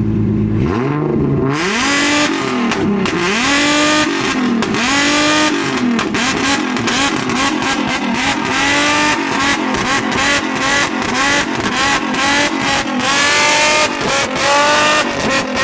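Nissan 350Z's V6, freshly retuned with a new loud exhaust, steady at first and then revved over and over, about once a second, each rev rising and falling. Sharp exhaust pops and crackles sound between and during the revs, the backfiring of a tune meant to shoot flames.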